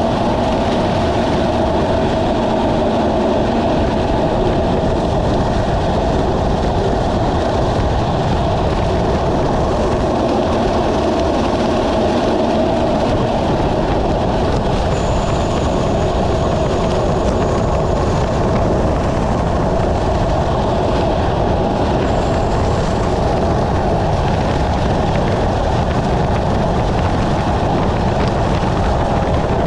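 Steady loud rushing of wind and wet road noise while moving at speed, with a faint thin high whine twice, briefly, past the middle.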